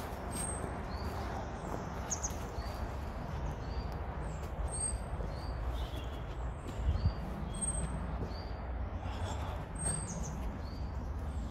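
A small songbird calling with short, high chirps repeated roughly once a second, now and then a higher note among them. Under the calls run footsteps on the woodland floor and a low rumble from the handheld camera, with a brief louder thump about seven seconds in.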